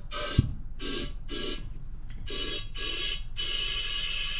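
Compressed air being blown into a Onewheel's tubeless slick tire through the open valve hole, with the valve core out, to seat the beads. It comes in short hissing bursts with a whistling tone, then turns into one steady hiss about three seconds in. A single knock sounds about half a second in.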